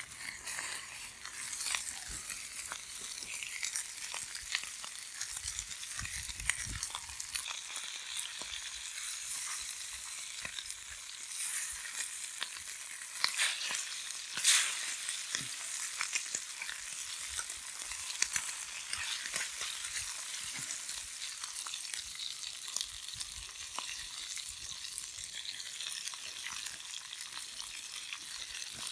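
Sea water washing and fizzing against a rocky shore: a steady crackling hiss full of small pops, with one louder surge about halfway through.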